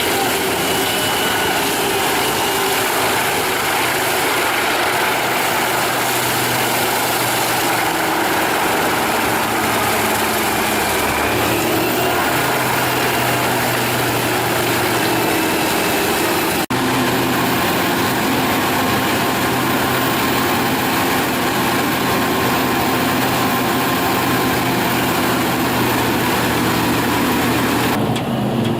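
Heavy machine engine running steadily under load, with a dense hiss over a low engine hum. There is a momentary break about 17 seconds in, and the sound changes shortly before the end.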